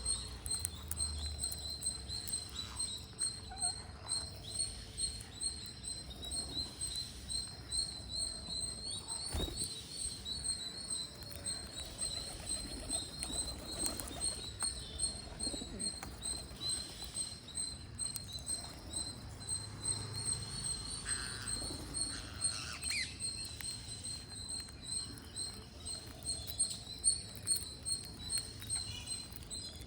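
Green parrots chirping: short, high chirps repeated at a steady pace, with scattered soft clicks and scratches and one sharper click about a third of the way through.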